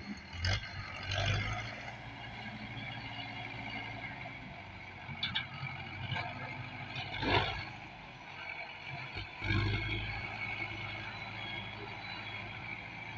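Diesel tractor engine running steadily, with a few short knocks over the steady hum.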